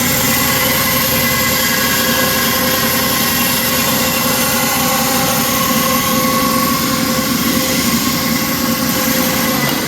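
Vintage Craftsman 8-inch tilting-arbor table saw, belt-driven by its Craftsman electric motor, running steadily with the blade spinning free. The motor bearings are a little growly and in need of grease.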